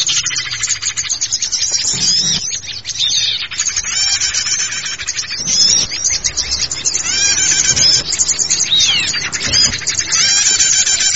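Small forest songbirds chirping and calling in a dense, continuous tangle of quick chirps and short arching whistles, several birds overlapping: a lure-call recording meant to draw small wild birds in for trapping.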